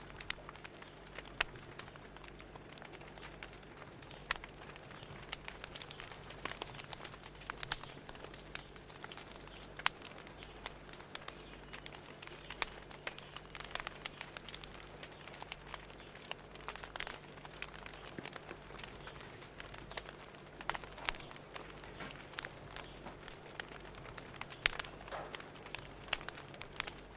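Fire crackling: irregular small pops and snaps over a soft steady hiss.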